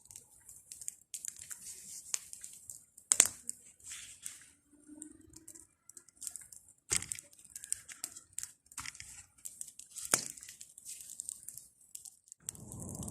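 Bonfire of pruned tree branches and old window-frame wood burning, crackling irregularly with a few louder pops about three, seven and ten seconds in. Near the end a duller, steadier rustling noise comes in.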